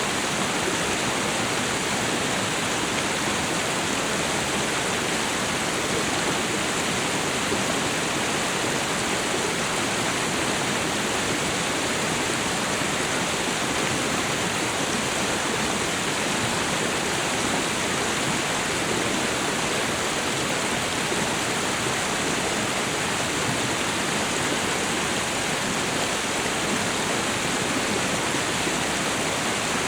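Waterfall and river water rushing steadily, an even dense noise with no breaks.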